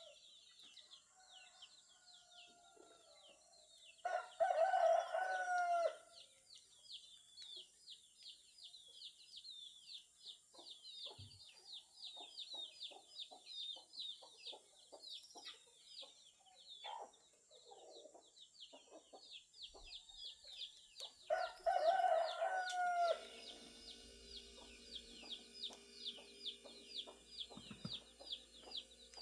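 Rooster crowing twice, about four seconds in and again about twenty-one seconds in, each crow about two seconds long and falling at the end, over a constant run of rapid, repeated high chirps from small birds. A steady low hum comes in near the end.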